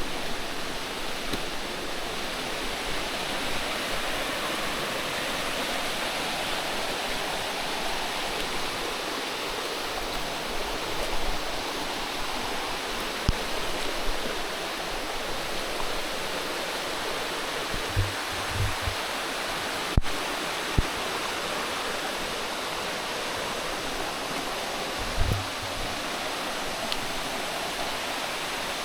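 Steady rush of running water, full and even throughout, with a few short low thumps in the second half.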